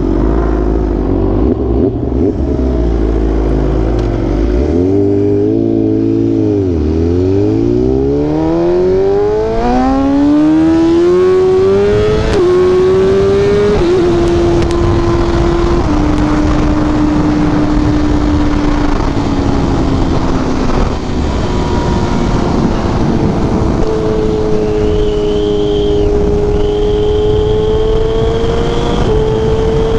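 Motorcycle engine under way: it slows about 7 seconds in, then accelerates with rising pitch and shifts up three times, then cruises at a fairly steady pitch, with steady wind noise throughout.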